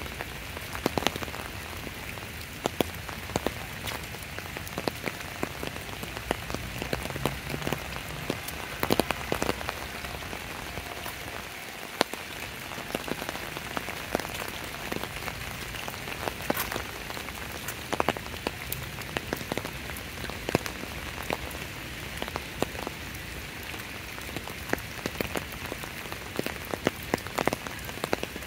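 Steady rain falling, an even hiss broken by frequent, irregular sharp clicks of drops striking close by.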